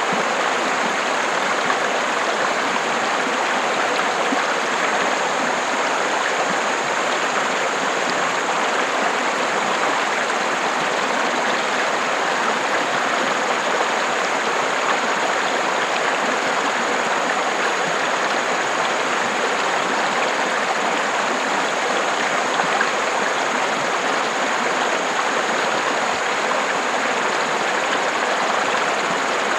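River water running steadily, an even rushing flow with no breaks.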